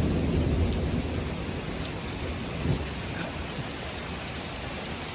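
Torrential rain falling steadily, with the low rumble of thunder from a nearby lightning strike dying away over the first second or two.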